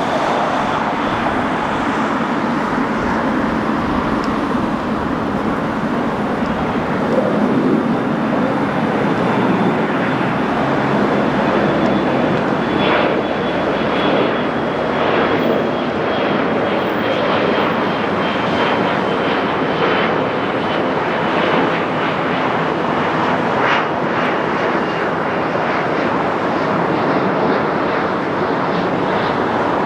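A Boeing 777-300ER's GE90 jet engines roaring steadily, with a thin high whine that slowly drops in pitch through the second half.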